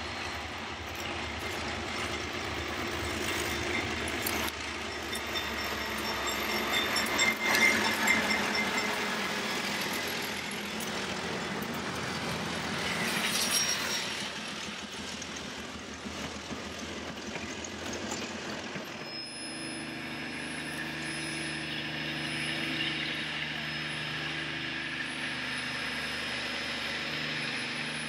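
Narrow-gauge diesel locomotives hauling a passenger train past on a curve, the engines loudest as they pass about 7 to 8 seconds in, then the passenger cars' wheels rolling by. About two-thirds of the way through, the sound changes abruptly to a steadier hum from a standing steam locomotive letting off steam.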